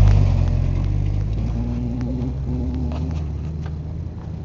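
Pickup truck engine running hard after the driver floors it for a jump, its low drone fading steadily as the truck pulls away.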